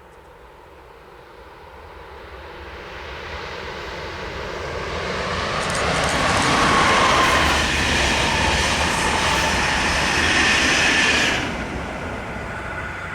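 A train approaching and passing: the rail noise builds over several seconds, stays loud with a few high steady tones in it, then drops suddenly near the end as the train goes by.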